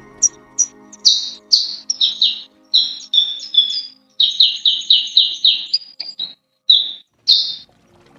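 A songbird singing a long, varied run of short high whistled notes, some in quick bursts of several notes, over faint background music.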